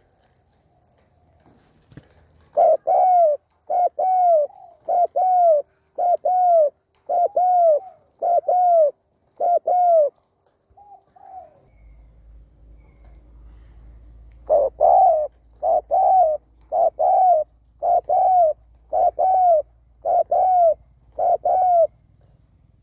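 Spotted dove cooing: two long bouts of short, arched coos in quick succession, with a pause between them. It is the excited 'kích bổi' calling used to stir up other doves.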